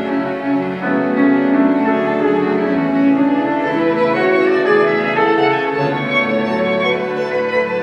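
String music led by violin with other bowed strings, playing long held notes that change every second or so.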